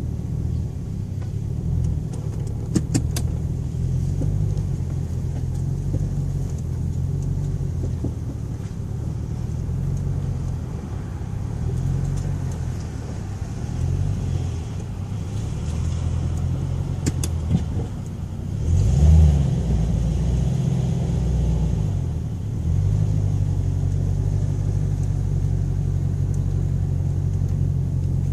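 Ford Thunderbird engine running while being driven, its low pitch rising and falling as it speeds up and slows, with a louder surge about two-thirds of the way through and a few sharp clicks.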